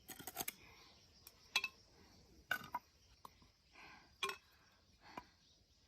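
A series of light, irregular knocks and clinks, some ringing briefly like metal, as a blade taps and strikes at a piece of firewood that will not split.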